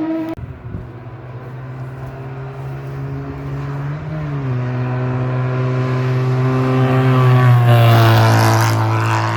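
Historic racing car engine approaching at steady high revs with a brief shift to a lower note about four seconds in, growing louder until it passes near the end with a rush of noise and a falling pitch. A different engine note cuts off abruptly at the very start.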